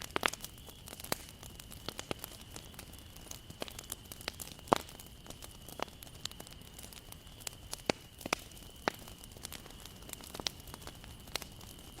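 Wood fire crackling, with irregular sharp pops and snaps over a soft hiss. A thin, steady high tone runs underneath.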